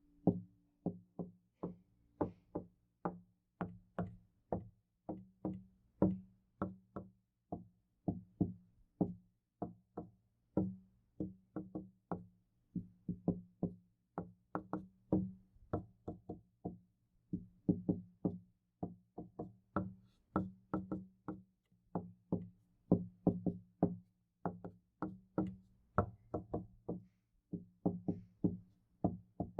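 Knocking on a door: a continuous run of sharp knocks, about two to three a second in uneven clusters, each leaving a low ring.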